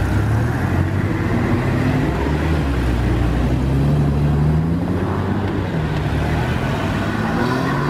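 Porsche 911s with flat-six engines pulling away one after another, each engine rising in pitch as it accelerates, about two to four seconds in and again near the end.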